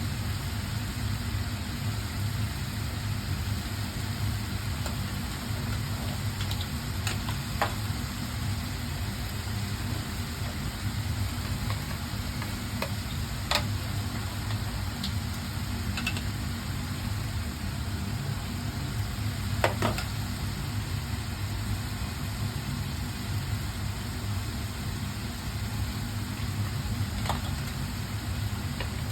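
Food frying in a pan, a steady sizzle over a low hum, with a few sharp clicks of a utensil against the pan scattered through.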